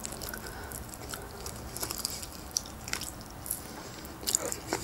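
A person chewing grilled chicken close to the microphone: soft mouth sounds with scattered short clicks, and a few sharper ones near the end.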